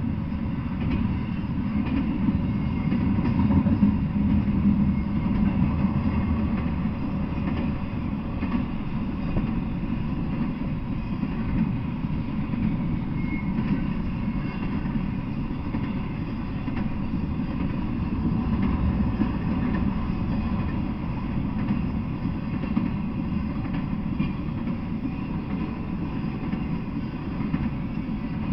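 Intermodal freight train rolling steadily past, a continuous low rumble of cars and wheels on the rails.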